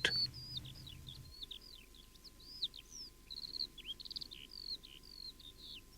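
Birdsong: a steady string of short, high chirps and whistling notes, some sliding up or down, from several birds.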